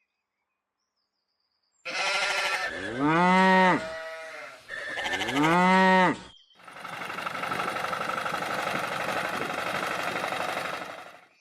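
A cow mooing twice, each moo a drawn-out call that rises and falls in pitch, over a noisy background. It is followed by about five seconds of a steady, rapid mechanical rattle that cuts off suddenly.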